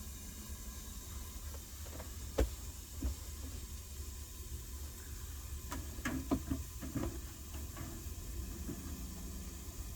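Steaks frying in a pan with a faint steady sizzle over a low steady hum, with a few sharp clicks and knocks of utensils or pan, one about two and a half seconds in and a quick cluster around six to seven seconds in.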